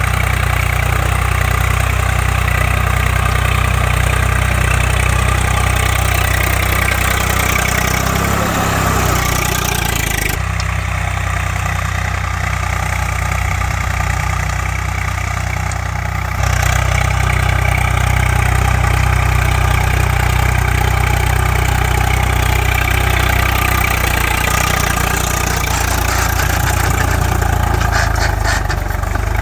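Swaraj 744 FE tractor's three-cylinder diesel engine running steadily, a continuous low drone. The sound shifts abruptly about ten seconds in and again about sixteen seconds in.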